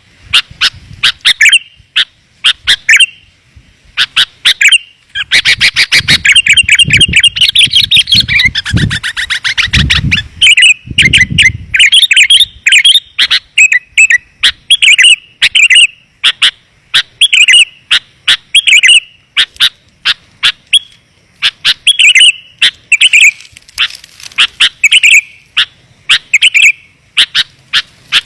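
Sooty-headed bulbul (kutilang) calling loudly in rapid, clear chirping phrases, repeated again and again as a bird-lure call. The calls are densest in the middle, where a low rumble lies beneath them for several seconds.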